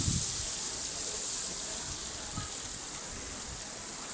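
Steady hiss of running or splashing water, with a few soft low thumps.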